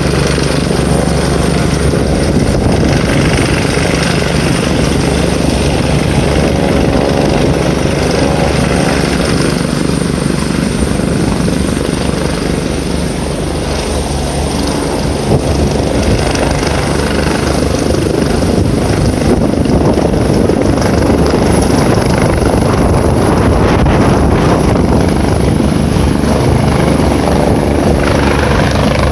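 Air-ambulance helicopter running loud and steady, with the deep rotor beat and a thin high turbine whine that rises a little about two-thirds of the way through.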